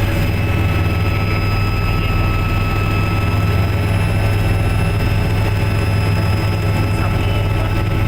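Helicopter turbine engine and rotor noise: a loud, steady drone with a thin, high whine running through it.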